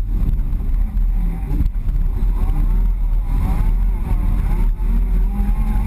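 Ford Bronco's engine running on an off-road trail, a steady low rumble, with its note rising and falling repeatedly from about two seconds in as the throttle is worked.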